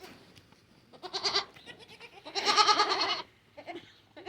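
Young dairy goat kids bleating: a short wavering bleat about a second in, a longer one a second later, and a faint brief one near the end.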